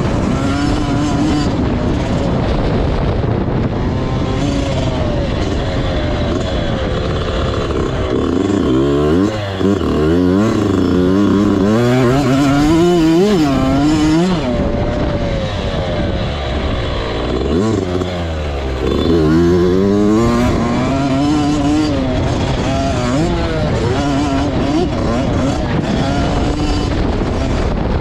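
Motocross bike engine being ridden hard, revving up and backing off over and over. Its pitch climbs in quick steps and drops when the throttle closes, busiest about a third of the way in and again around two-thirds in.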